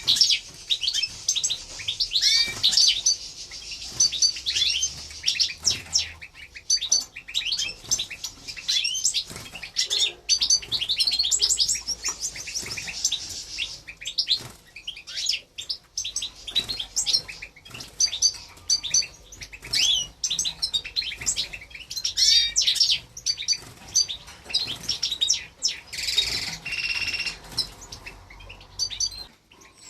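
Goldfinch × canary mule chicks chirping continuously in quick, high, gliding calls, with many short clicks and flutters between the calls.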